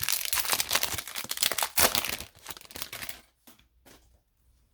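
Foil trading-card pack wrapper being torn open and crinkled for about three seconds, then a few faint ticks.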